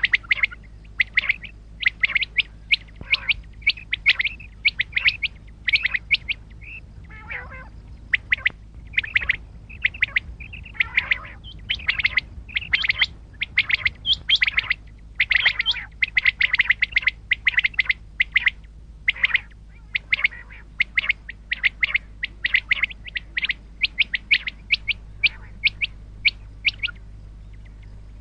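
Common quail calling over and over in rapid runs of short, high notes, with a few lower, falling notes mixed in. The calls stop about a second before the end, leaving a low steady hum.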